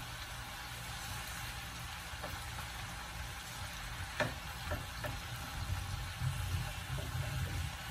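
Malabar spinach and potatoes sizzling in a frying pan as they are stirred with a silicone spatula, with a few short knocks of the spatula against the pan, the sharpest about four seconds in.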